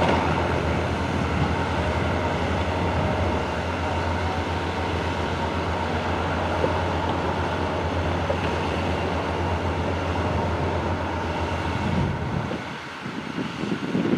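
SM2 snow-removal train and its locomotive running with a steady low mechanical drone and a steady higher whine. The drone drops away near the end, leaving wind noise.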